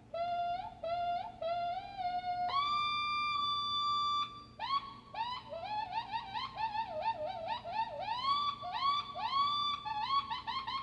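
Electric guitar played through a wah pedal wired in reverse (guitar into the pedal's output, amp into its input), crying like seagulls. Short upward-swooping cries, then a long held high note about two and a half seconds in, then a quick run of swooping, wobbling cries.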